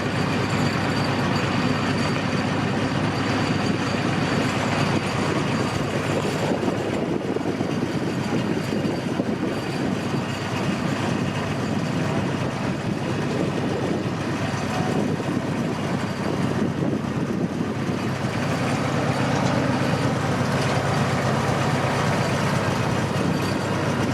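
Tourist train rolling steadily along its track, heard from aboard: a continuous rumble of wheels on rail with a low engine hum.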